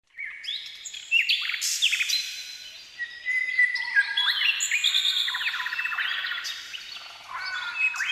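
Several birds singing at once, a dense mix of overlapping chirps, whistles and quick trills.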